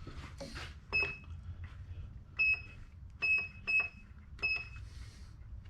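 Electronic keypad beeping as its buttons are pressed: five short, identical high beeps, each with a soft button click, spaced unevenly over a low steady hum.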